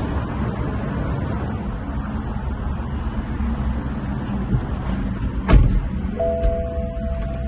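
Steady low rumble around a car, with a single heavy thump about five and a half seconds in, like a car door shutting. A steady electronic beep follows and lasts about a second and a half.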